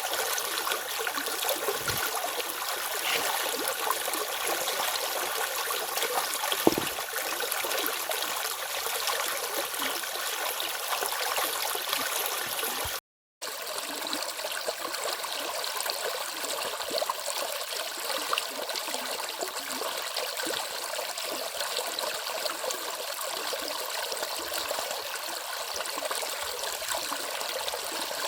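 Stream water rushing and splashing steadily over a small cascade, with a single knock about seven seconds in. The sound breaks off for a moment about thirteen seconds in, then carries on unchanged.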